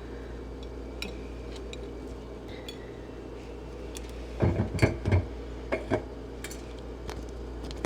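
Light clinks and taps of a spoon against a plastic egg mold as a birdseed mixture is scooped and packed into it, with a short cluster of louder knocks about halfway through.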